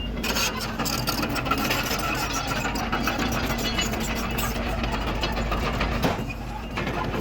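Diesel engine of a Komatsu D31PX crawler dozer running at work, with a dense clatter of short knocks over the engine sound; the clatter briefly drops away about six seconds in.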